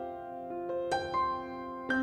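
Calm, slow piano music: sustained notes, with new notes struck about a second in and again near the end.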